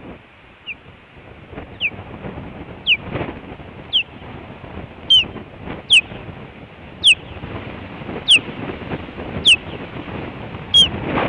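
Osprey calling a series of short whistled chirps, each sliding down in pitch, about one a second, over wind rushing on the microphone.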